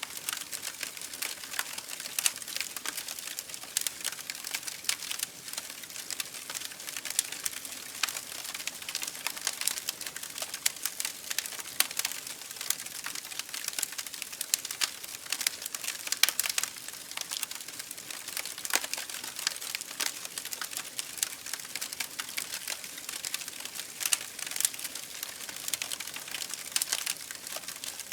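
Wood fire crackling: a steady hiss with many sharp, irregular pops and snaps.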